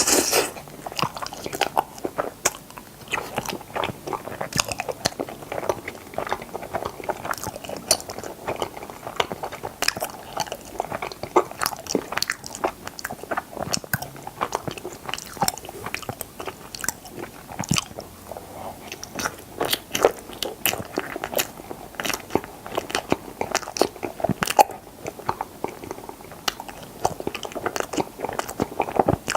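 Close-up chewing and biting of frozen strawberry mochi ice cream: a continuous run of crunching, with many sharp clicks a second and a louder bite right at the start.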